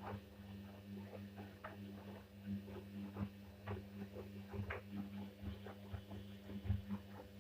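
LG WD-80160NUP front-loading washing machine running a wash: a steady low hum with irregular light clicks and taps.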